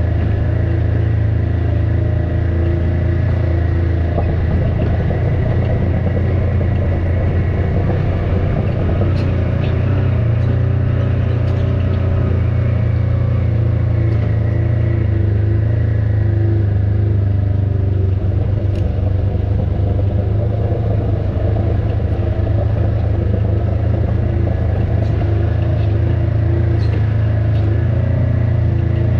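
Off-road vehicle's engine running steadily with a constant low rumble, with a few faint clicks and knocks scattered through.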